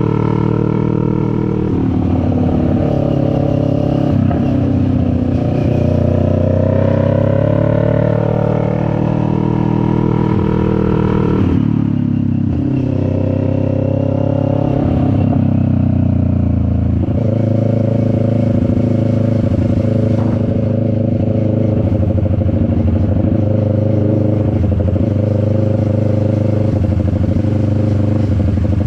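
CFMoto 400NK's parallel-twin engine running under way, its pitch climbing steadily for several seconds, then dropping sharply about twelve seconds in, then holding at a steady speed.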